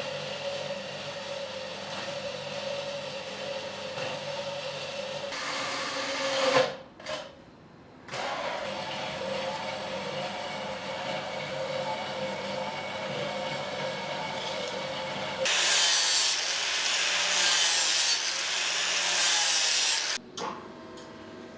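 A power tool working metal. Its motor runs with a steady whine, stops briefly about seven seconds in, then starts again. Near the end come three loud, harsh passes as the tool bites into the metal.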